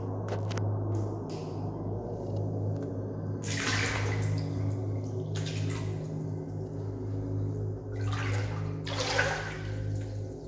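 Water sloshing twice in the salt water of a float tank, each a brief swell about four seconds apart, over a steady low hum.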